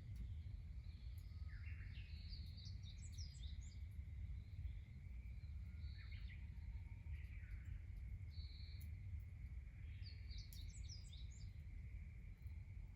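Outdoor ambience with birdsong: a small bird sings a short phrase of rapid high chirps twice, about eight seconds apart, over a steady low rumble and a faint steady high tone.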